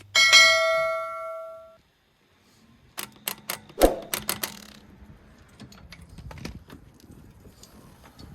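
A single metallic ding ringing out with several bell-like tones and fading over about a second and a half. After a short silence comes a run of sharp clicks and knocks, the loudest a little before halfway, then faint scattered ticking.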